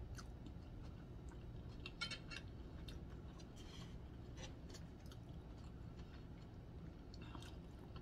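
Faint chewing of a mouthful of deer sausage spaghetti, with small mouth clicks scattered through it.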